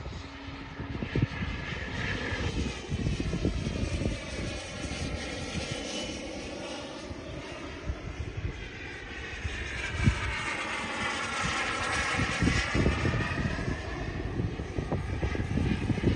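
Twin Kingtech K45TPG4+ model turboprop engines of a radio-controlled OV-10 Bronco running steadily in flight. The whine sweeps down and back up as the model passes, twice.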